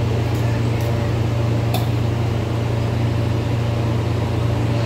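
Steady low mechanical hum of a Tri-Rail passenger train standing at the platform with its doors open, its machinery running at idle.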